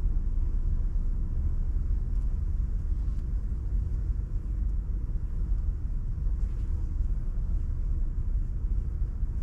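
A steady low rumble that flutters irregularly in level throughout.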